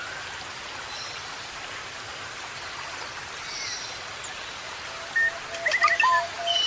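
Forest birds calling over a steady hiss. Near the end one bird starts a run of evenly spaced low whistled notes, about three a second, with a short trill from another bird above it.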